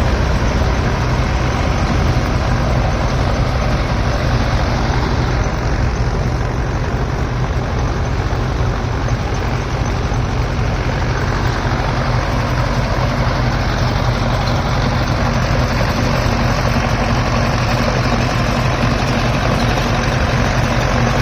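Heavy diesel farm machinery running steadily at working speed: a constant low engine hum under a dense mechanical clatter, with no change in pace.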